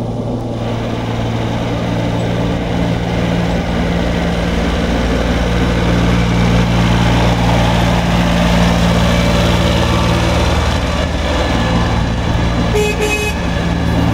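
Iseki compact tractor's diesel engine running steadily, growing a little louder over the first few seconds. A short beep comes about a second before the end.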